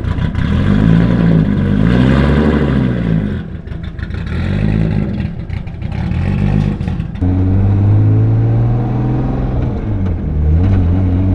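Turbocharged 2JZ-GTE VVTi straight-six with a Precision 6266 turbo, swapped into a Scion FR-S, revving up and falling back about three times, then holding a steady lower drone from about seven seconds in.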